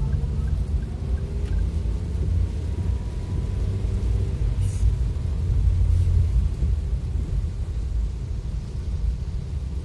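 Low, fluctuating rumble of a vehicle driving through heavy rain, with road and rain noise.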